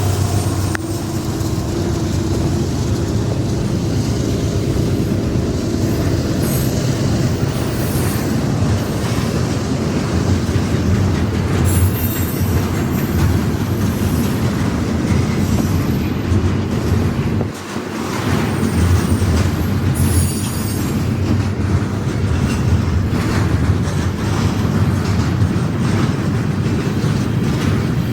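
Freight train cars rolling past, a steady loud rumble of steel wheels on the rails. A couple of short high-pitched squeals come in about twelve and twenty seconds in.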